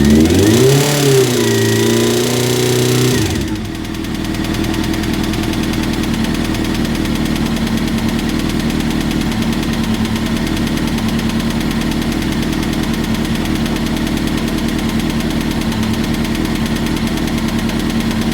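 Kawasaki GPZ900R's inline-four engine blipped, its pitch rising and falling, then dropping back about three and a half seconds in to a steady idle. The engine is being run to show an abnormal noise.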